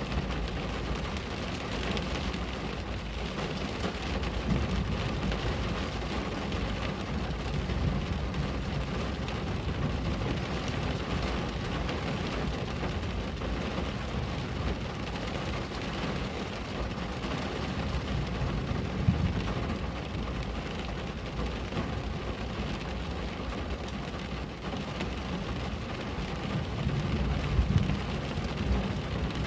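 Steady rain falling on a window, an even hiss with a low rumble underneath and a few brief louder moments, one about two-thirds of the way in and a couple near the end.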